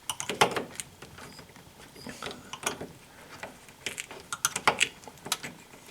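A plastic trim cover on the side of a fridge being prised off: a run of irregular sharp clicks and short scrapes of plastic.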